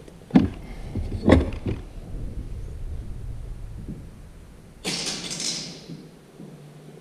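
Metal transmission parts handled on a workbench: two sharp clunks about a second apart, a lighter knock just after, then a brief rushing, scraping noise about five seconds in.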